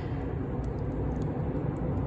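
Wood bonfire burning: a few small, faint crackles and pops over a steady low rumble.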